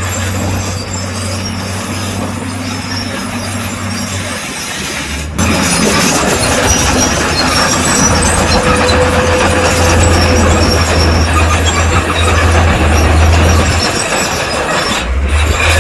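Crawler bulldozer working: its diesel engine runs steadily with a low hum, along with the noise of its steel tracks. The sound changes abruptly about five seconds in and again near the end.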